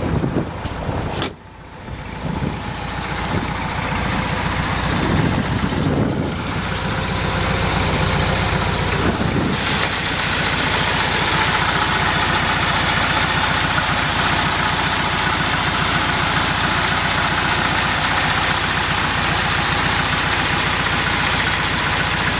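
1956 Volkswagen Beetle's 40 hp 1200cc air-cooled flat-four engine running, heard close up at the open engine bay. It is revved up and down a couple of times in the first ten seconds, then idles steadily, freshly tuned.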